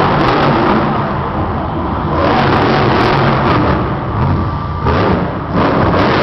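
Monster truck engine revving hard, the pitch rising and falling, with short lulls about two and five seconds in as the throttle comes off.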